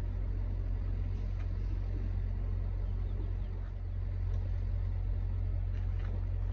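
Steady low rumble of a semi truck running, with an even hiss above it.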